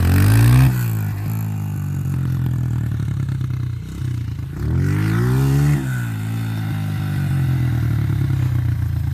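Dirt bike engine idling, revved twice: the pitch climbs and drops back about half a second in, and again from around five seconds in.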